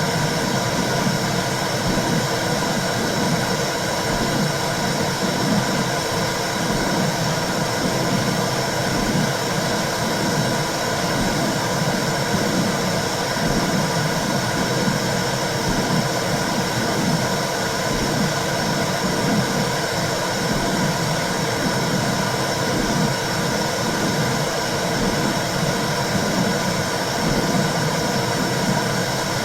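Womb sound for soothing a baby: a steady whooshing noise with a low pulse that repeats about once a second, like blood flow and a heartbeat heard inside the uterus.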